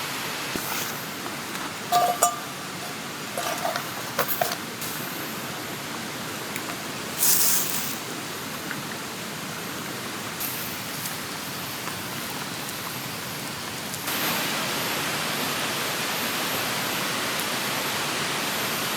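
Steady rushing noise of a flowing river, with a few light clicks and knocks over it. The rushing grows louder about fourteen seconds in.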